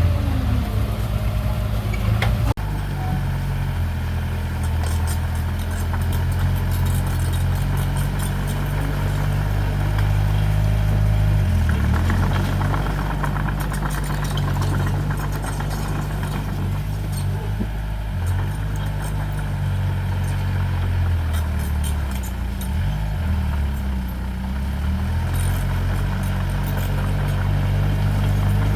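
Diesel engine of heavy earthmoving equipment (bulldozer or dump truck) running steadily, its pitch dipping briefly twice as the load changes.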